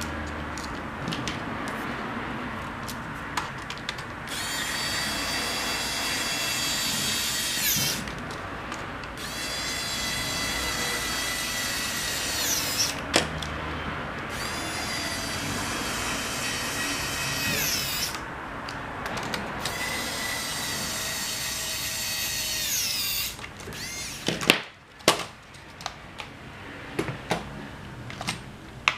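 Small electric motors of an SG900-S drone spinning up in four runs of a few seconds each: a steady whine that rises in pitch just before each cut-off. A few sharp clicks near the end.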